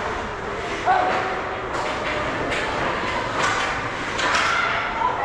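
Ice hockey game sounds in a large echoing rink: sharp clacks of sticks and puck every second or so, with short distant shouts from players.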